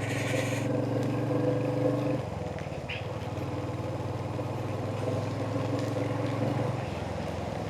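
Royal Enfield Hunter 350's single-cylinder engine running while riding, with road and wind noise. The engine eases off about two seconds in, pulls again about a second later, and eases off again near the end.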